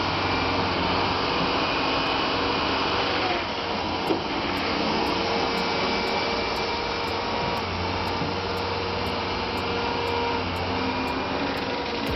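A machine running steadily: a constant motor hum under an even, noisy rush that holds at much the same level throughout.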